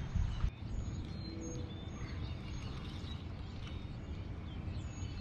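Birds giving short high chirps every second or so over a steady low outdoor rumble, with a few soft knocks in the first half second.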